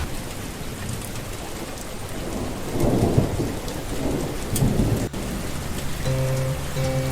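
Steady rainfall with a low rumble of thunder swelling in the middle.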